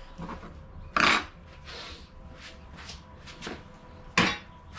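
Metal car parts being handled on a work surface: two louder clunks, about a second in and near the end, among smaller clicks and rubbing.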